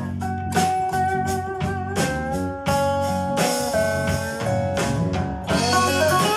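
Music with guitar and drums played back through a portable Bluetooth speaker for a sound test.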